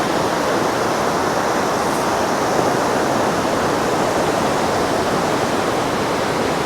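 Ocean surf at the water's edge of a sandy surfing beach: a steady rush of breaking and washing waves.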